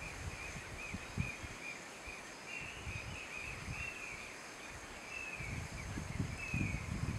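Small bird calling: a run of short high chirps, a few a second, that give way past the middle to longer notes sliding downward. Wind rumbles on the microphone near the end.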